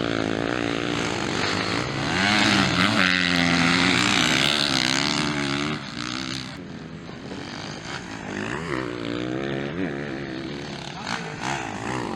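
Motocross bike engines racing on a dirt track, revving up and down as the riders go through the gears and throttle in and out of corners. The sound is loudest from about two seconds in, then drops off suddenly past the middle, with further rising revs later.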